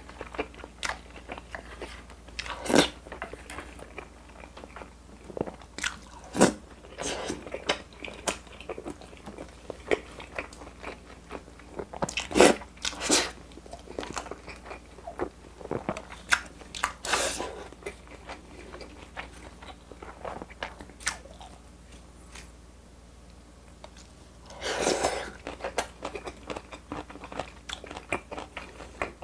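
Close-miked chewing of food, with wet mouth sounds and sharp crunches and clicks at irregular intervals.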